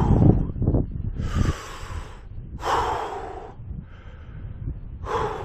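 A man breathing hard and loud after a steep climb, about three heavy breaths in and out while he rests, his legs shaking from the effort.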